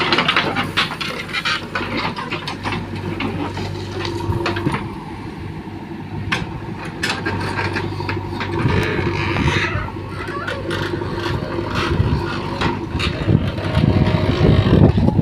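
Heavy diesel machinery engines running steadily, with scattered knocks and clatter. The engine gets louder and heavier twice, around the middle and near the end.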